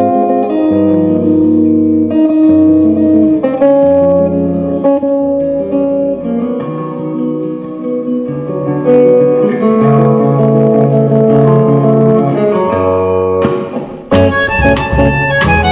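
Tango quartet of guitar, bandoneón, double bass and drums playing a milonga: long held notes and chords over plucked guitar. Near the end the music drops briefly, then the full band comes back in louder with cymbals.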